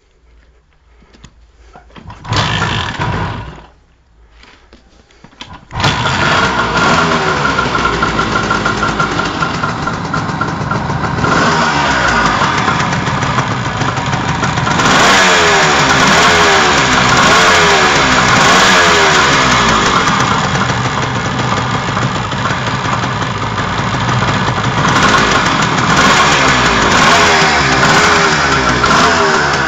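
Suzuki GT380's air-cooled two-stroke three-cylinder engine, with Boyer Bransden electronic ignition and freshly refitted carburettors, being started: a short first burst about two seconds in, then the engine catches about six seconds in and keeps running, its revs rising and falling repeatedly.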